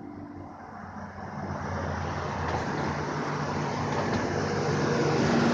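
A truck accelerating away from a stop at a green light, its engine note and road noise getting steadily louder as it pulls off.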